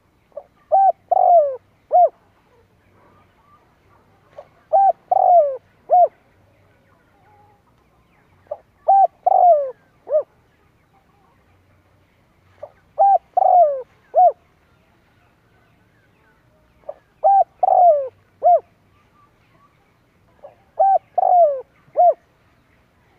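Spotted dove singing: six repeated cooing phrases, one about every four seconds, each a few short coos around a longer coo that falls in pitch. It is a male's song of the kind played back to call in wild doves.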